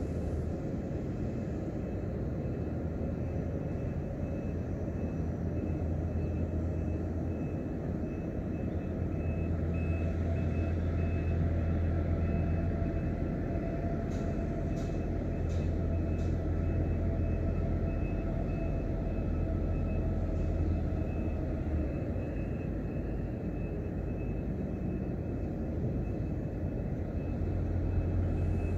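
Steady low drone of aircraft engines with a faint high steady whine over it, and a few faint clicks about halfway through.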